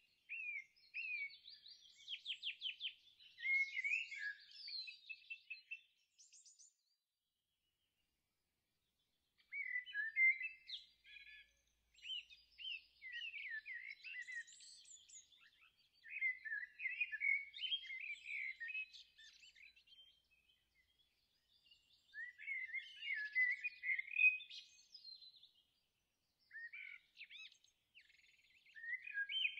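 Several songbirds chirping and singing in quick, overlapping phrases of short rising and falling notes and trills, in bursts with short pauses, and a full break of about three seconds some seven seconds in.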